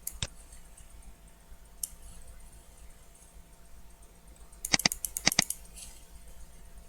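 Computer mouse button clicking: a couple of sharp clicks near the start, then a quick run of about half a dozen clicks a little before the end.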